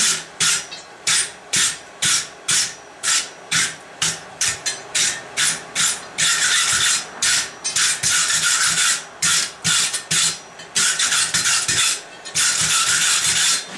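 Wire brush scrubbed back and forth over the steel bar of a forged poker to clean it, in quick scraping strokes a few times a second, running together into continuous scrubbing around the middle and again near the end.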